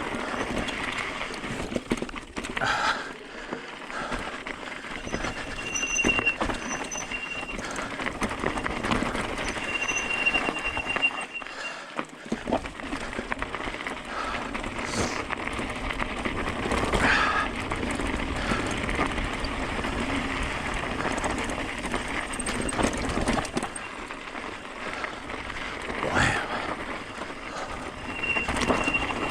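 Hyper 29er e-bike rolling down a rough, rocky trail: steady tyre and ride noise with frequent rattling knocks. Three times, brief high squeals from the disc brakes, which squeal because they were washed without brake cleaner.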